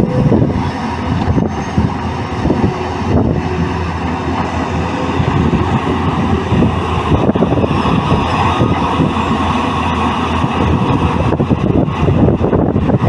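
Excavator engine running steadily while working, with a few sharp knocks or clanks along the way.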